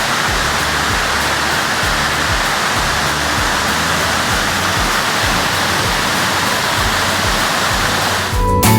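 Waterfall pouring, a steady loud wash of rushing water. About eight seconds in, the water sound cuts off abruptly and music starts.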